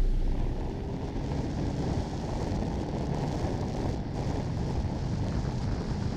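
Honda CBR900RR Fireblade's inline-four engine running steadily under way, mixed with wind rushing over the action camera's microphone.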